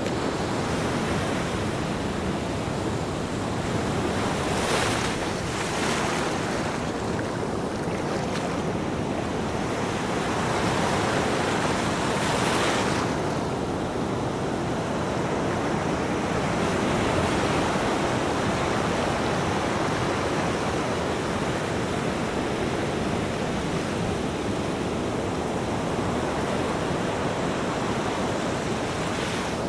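Ocean surf breaking on a beach: a steady wash of waves, with the surf swelling several times, most strongly about ten to thirteen seconds in.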